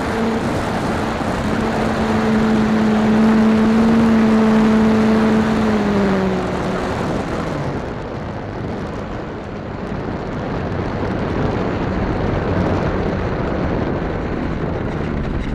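An electric RC warbird's motor and propeller drone steadily over a loud rushing noise, then dip in pitch and fade about six seconds in, as the plane passes and moves away.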